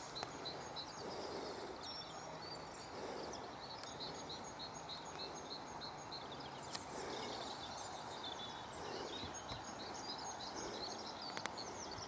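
Birds singing faintly over a quiet background hiss: a run of short high chirps about three a second, then more varied warbling.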